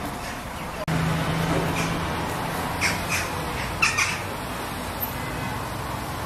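A bird calling a handful of short times between about two and four seconds in, over a steady low hum.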